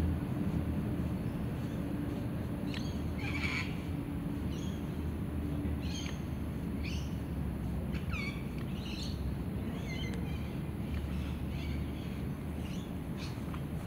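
Birds calling: a run of short, separate calls starting about three seconds in, many of them falling in pitch, over a steady low rumble.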